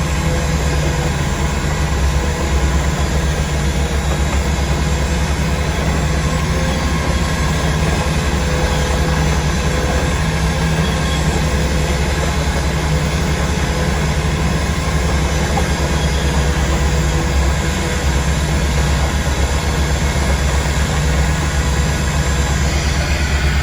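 Heavy engine running steadily at an even speed, a loud, unbroken low drone.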